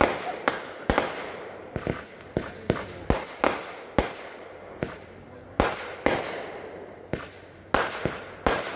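Consumer fireworks cake (the Pulse Pounder) firing: sharp bangs come one after another, about every half second to a second, each trailing off in a fading rumble.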